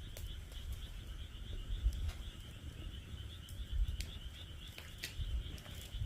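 Firewood crackling in a fire pit, with several sharp pops scattered through, over a steady high-pitched trilling chorus of frogs.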